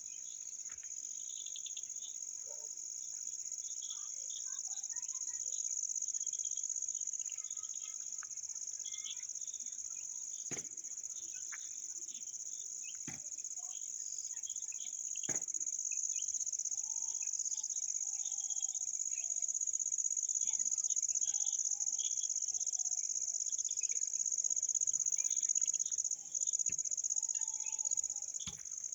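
Steady, high-pitched insect chorus that runs without a break, with faint scattered chirps and a few soft gliding calls over it. Three sharp clicks stand out partway through.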